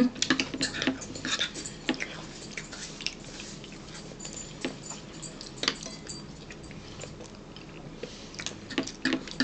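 Close-up chewing and mouth sounds of a person eating chili, with scattered short clicks and smacks.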